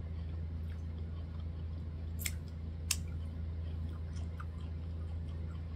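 Close-up chewing of a mouthful of corn on the cob, with two sharp crunches about two and three seconds in, over a steady low hum.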